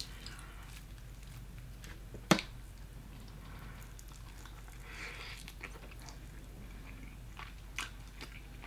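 A person chewing and biting into Popeyes fried chicken close to the microphone, with soft mouth sounds and small crunches; one sharp click a little over two seconds in is the loudest sound.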